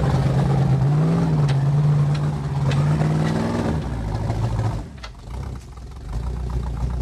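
Carbureted Jeep Cherokee engine revving under load off-road. Its pitch lifts about a second in, and a few sharp knocks come through. Near the five-second mark it falls away sharply for about a second, then picks up again at a lower pitch.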